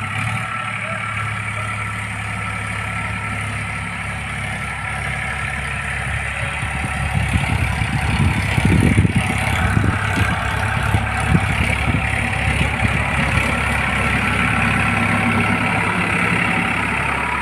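Farm tractor engine running steadily while plowing. About seven seconds in it grows louder, with uneven low thumps for several seconds, then settles back to a steady run.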